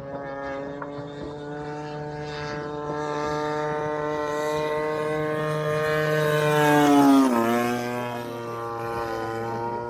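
Gas engine of a radio-controlled scale Stinson Reliant model plane flying past with a steady drone. It grows louder as it approaches, drops sharply in pitch as it passes about seven seconds in, then carries on lower and quieter as it moves away.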